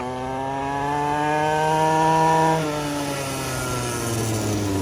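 Small 50cc quad bike engine running hard, its note climbing steadily as it comes closer, then dropping sharply about two and a half seconds in as the quad goes past and moving off lower.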